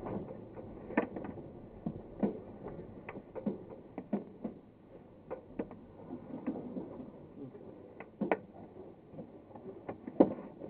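Glider cockpit and airframe knocking and rattling irregularly, one or two sharp knocks a second, as turbulence jolts the glider under tow, over a faint steady rush of air. The loudest knock comes near the end.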